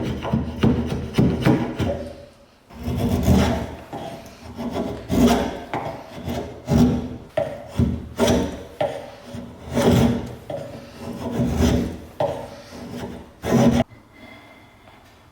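Rhythmic rasping strokes of a hand tool rubbing against a workpiece, roughly one stroke every three-quarters of a second. The strokes stop abruptly near the end.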